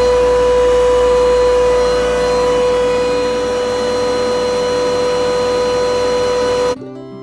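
York YCAV air-cooled screw chiller running: a loud, steady whine over broad machine noise, cutting off suddenly near the end as plucked-string music comes in.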